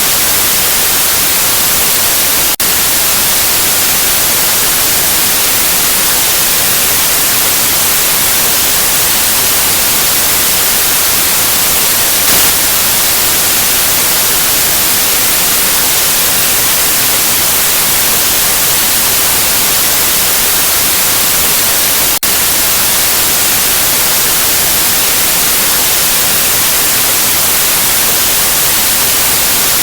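Steady white noise: an even, loud hiss, strongest in the treble. It drops out for an instant twice, once near the start and once about three quarters of the way through.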